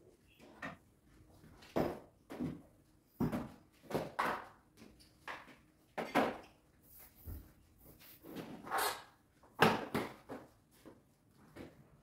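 Floor being mopped: irregular swishing strokes of the mop over the floor, mixed with light knocks and bumps.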